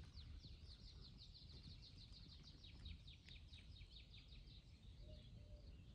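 Faint bird song: a long, rapid run of short descending whistled notes, about six a second, that weakens near the end, over a low steady background rumble.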